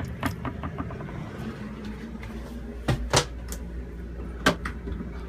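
Clicks and sharp knocks of hardware being handled in a small boat head, over a steady low hum that comes in about a second and a half in: the boat's freshwater pressure pump, just switched on, running to build pressure.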